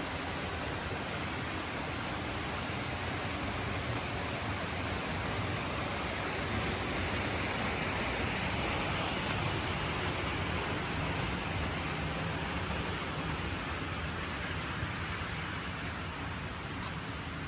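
Steady rushing noise, swelling a little in the middle and easing toward the end.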